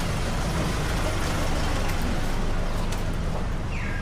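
Motor traffic on a street, a vehicle running close by with a steady rumble and road noise, and a short falling whine near the end.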